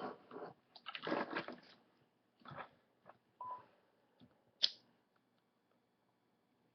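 Handling noises: a cluster of short rustles and clicks, then a few isolated ones, the sharpest a click a little under five seconds in.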